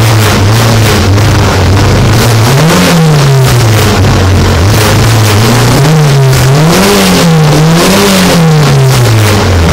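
Car engine held at a steady fast idle, then revved up about three seconds in and again three times in quick succession, the tachometer needle climbing to around 6,000 rpm. It drops back near the end. Loud throughout.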